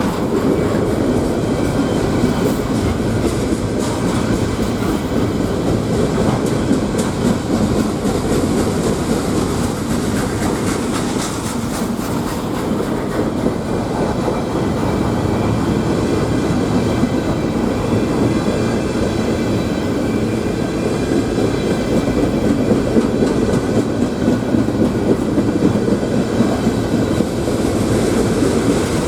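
Freight train rolling past at close range: a steady, loud rumble of steel wheels on rail, with wheel clacks over the rail joints.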